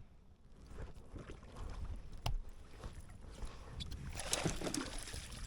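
Water and hull sounds from a fishing kayak, with a sharp knock about two seconds in and a louder splashing burst near the end, over a low rumble.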